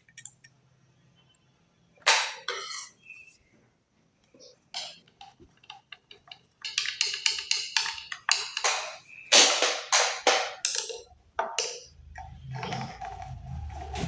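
Sharp metallic clicks and knocks of a sewing machine's needle and needle-plate parts being handled and screwed tight, scattered at first and coming thick and fast from about halfway in. Near the end a low steady hum sets in.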